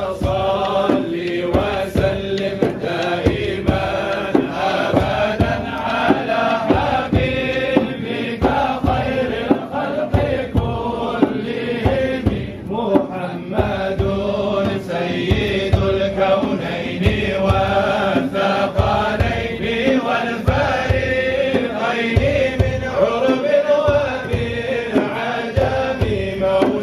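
Music: male voices chanting a melody, with frequent sharp beats.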